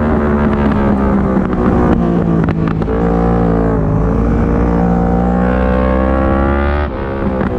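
Yamaha R1 inline-four engine at racing speed: the revs fall for the first couple of seconds, with a few sharp clicks around two to three seconds in. The engine then climbs steadily under hard acceleration until a gear change near the end drops the pitch suddenly.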